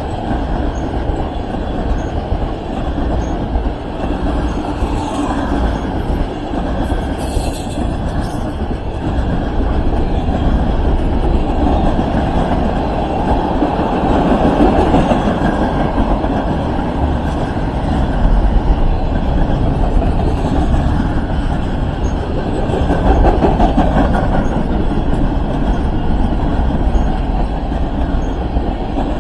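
A train rolling along the rails, a steady rumble that grows somewhat louder about ten seconds in.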